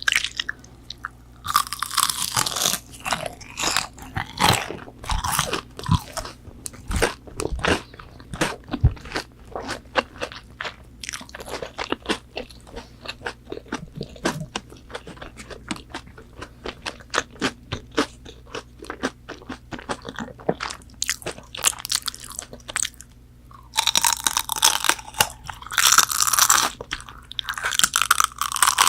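Close-miked eating of crispy McDonald's chicken nuggets: loud crunching bites about two seconds in and again several times near the end, with wet chewing in between.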